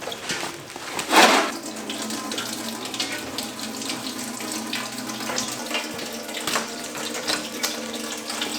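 Engine coolant draining out of a pickup truck's radiator in a steady splashing stream, with a louder rush about a second in.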